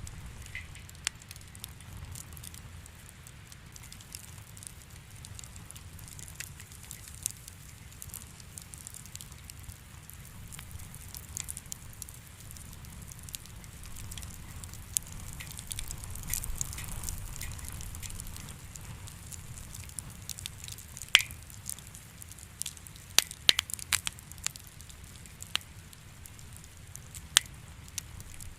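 Wood fire in a fireplace crackling: scattered sharp pops, with a cluster of them near the end, over a low steady rumble.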